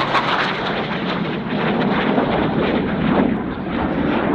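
Loud jet noise from a Dassault Rafale's twin Snecma M88 turbofan engines as the fighter makes a display pass: a dense rushing sound with no clear pitch.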